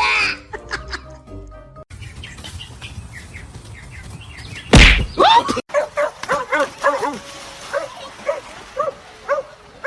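A loud thump about five seconds in, followed by a dog barking repeatedly, about three barks a second, over background music.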